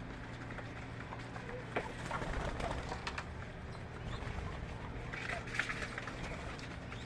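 Birds calling: short scattered chirps and clicks over a steady low hum, with a denser run of chirping a little past the middle.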